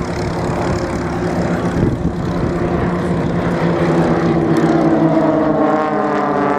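Extra 330 SC aerobatic planes flying a formation pass, their piston engines and propellers giving a steady droning note. It grows louder through the middle, then drops slightly in pitch near the end as the planes go by.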